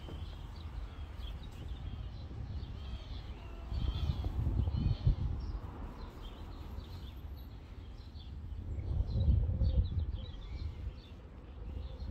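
Small birds chirping and singing, many short calls scattered throughout, over a low outdoor rumble that swells about four seconds in and again about nine seconds in.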